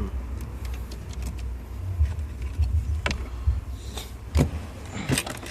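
A few sharp plastic clicks and taps from handling car interior trim and a wire being routed behind it, over a steady low rumble. One click comes about three seconds in, another a little later, and a quick cluster near the end.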